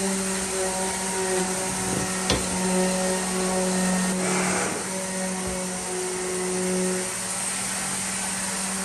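A workshop power tool's motor running steadily with a whine, under background music. There is a sharp tap about two seconds in and a short hissy scrape around four seconds in.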